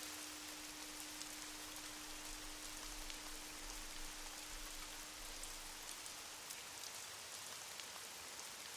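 Steady rain hiss with scattered drop ticks, faint. Under it a single low steady tone, the lingering ring of a singing bowl, fades away near the end.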